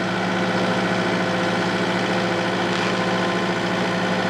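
Diesel engine of a TL8 compact track loader running steadily, holding a furnace up on its forks.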